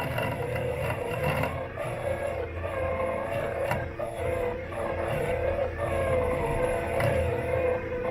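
Robot lawn mower running, picked up by a microphone fixed to its body: an electric motor whine that wavers up and down, over a rumble of wheels and blade in the grass, with a couple of sharp ticks.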